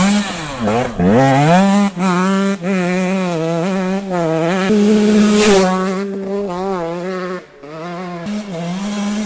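KTM SX 125's two-stroke single-cylinder engine running at high revs under throttle, its pitch rising, dipping and stepping repeatedly as the rider works the throttle and gears. The level drops sharply for a moment about three-quarters of the way through before the engine picks up again.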